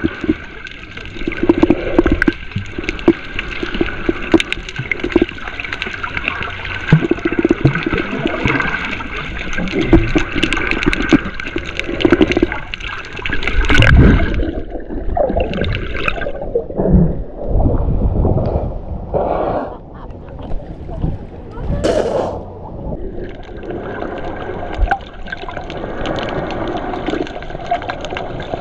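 Sea water sloshing and gurgling around a waterproof camera held in shallow water while snorkelling, with small knocks and splashes. From about halfway through, the sound turns muffled for several seconds, then opens up again.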